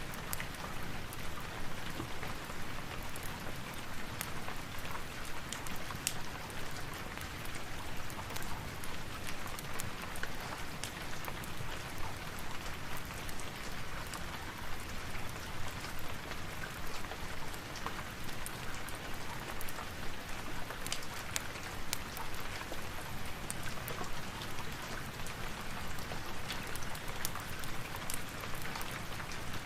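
Steady rain falling, with scattered sharp clicks and pops throughout.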